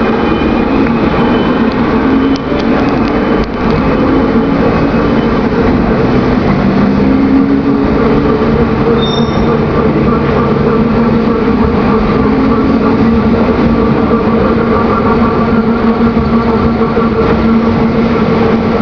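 Electric passenger train rolling slowly past close by along a platform, with a steady loud rumble of wheels and running gear and wavering motor tones that slide in pitch partway through.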